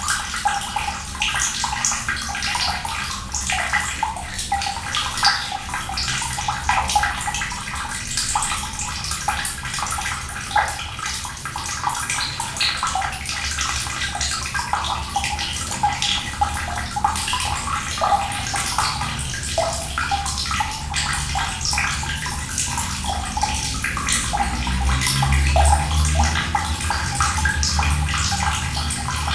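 Running water flowing and splashing steadily, with a low rumble that swells near the end.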